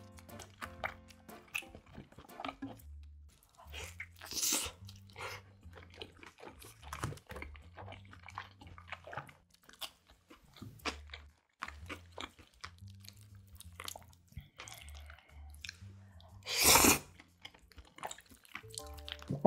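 Close-miked chewing and crunching of pizza crust, with many short wet mouth clicks. Near the end comes a loud, short slurp as a forkful of cream pasta is sucked in.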